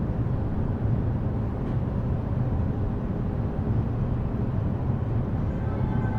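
Inside an E233 series electric commuter train: a steady low rumble from the car. Near the end, a faint whine of a few steady tones sets in.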